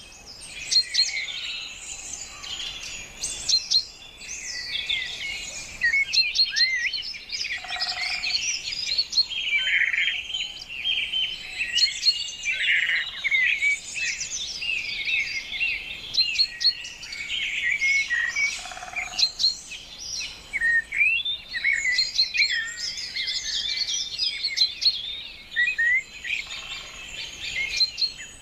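A dense chorus of many songbirds chirping and singing at once, their quick, high calls overlapping without a break.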